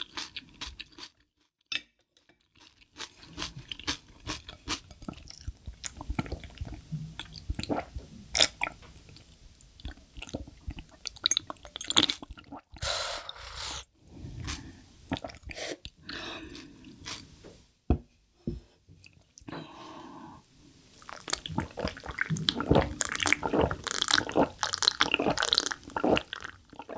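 Close-miked chewing and crunching of food by a person eating, in irregular clusters of wet clicks and crunches with a short pause about a second in.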